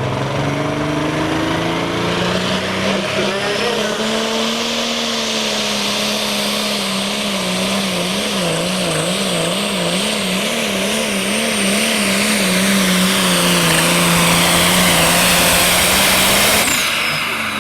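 A super stock pulling tractor's diesel engine at full power under load on a pull. Its pitch climbs in the first couple of seconds and then holds, with the revs wavering quickly up and down, two or three times a second, around the middle of the run. The engine grows louder toward the end, then the revs drop off suddenly about a second before it ends, as the throttle is lifted.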